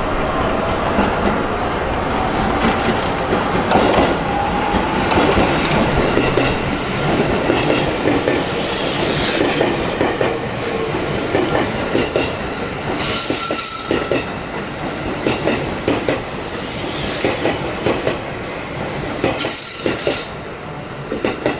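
JR 205-series 5000-番台 electric commuter train running along the platform, a steady rumble of wheels on rail with rapid clicking over rail joints. A high wheel squeal rises twice, about two-thirds of the way through and again near the end.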